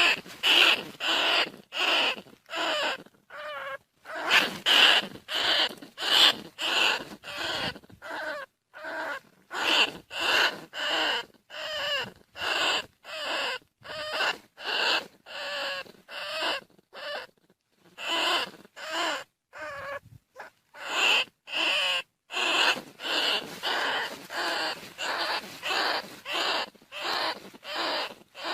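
Bandicoot rat calling: short squeaking calls repeated about two a second in a long, even series, with a few brief pauses.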